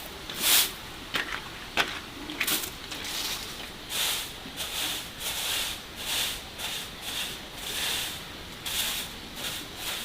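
Repeated scraping or swishing strokes, roughly one to two a second, with a few sharp clicks in the first three seconds.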